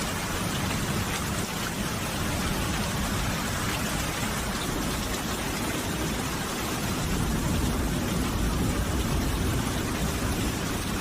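Steady rain falling, an even hiss of drops. In the second half a low rumble builds beneath it.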